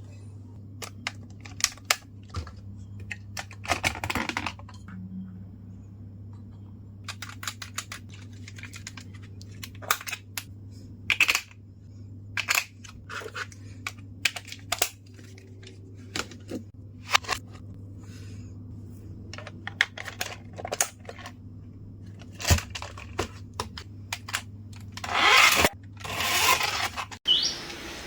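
Clicks, taps and knocks of small hard plastic and metal toy parts being handled and worked on, over a steady low hum. Near the end there are two louder bursts of scraping or tearing.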